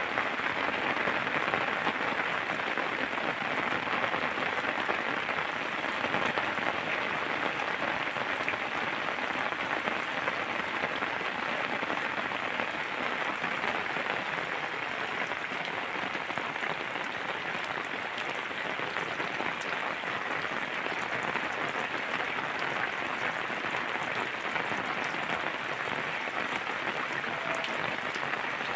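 Steady rainfall, an even hiss of drops with no let-up.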